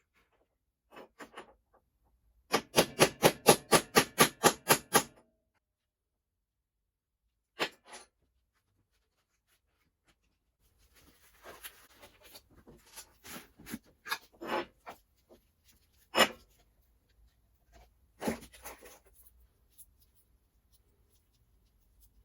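Workshop knocks and handling noises: a quick run of about a dozen even strikes, roughly five a second, about three seconds in, then a few single sharp clicks and some softer clatter.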